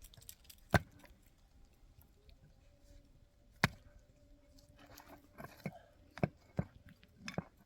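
A few sharp knocks or clicks, a loud one about a second in and another near four seconds, then a quicker run of taps in the last two seconds or so.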